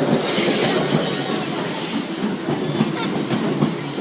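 Train passing close by: wheels clattering over the rail joints with a steady rumble, and a faint high squeal of wheels on rail.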